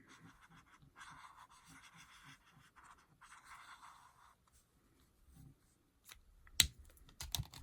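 Colouring strokes rubbing back and forth on card stock in two stretches of a couple of seconds each, followed near the end by a few sharp clicks.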